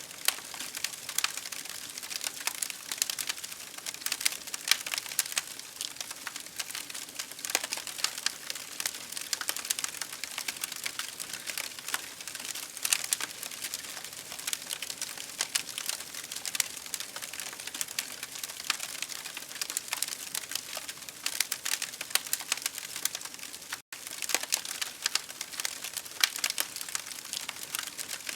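Campfire burning with dense, irregular crackles and snaps over a steady hiss. The sound cuts out for an instant about 24 seconds in.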